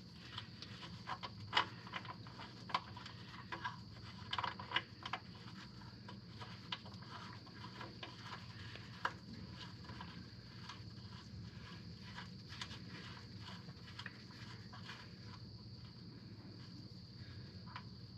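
Scattered light clicks and taps from hand work with tools and parts, several in the first five seconds and sparse after that, over a faint steady hum.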